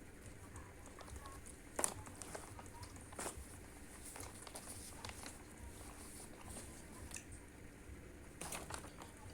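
Faint eating sounds: scattered clicks and clinks of spoons on plates and chewing, with a few sharper knocks.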